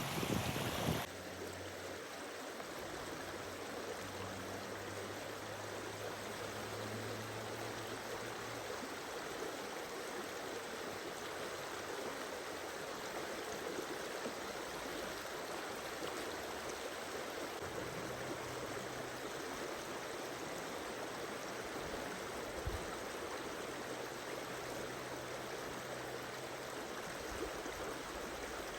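A stream running, a steady rush of water. A louder, windier sound cuts off about a second in, and a faint low hum comes and goes underneath.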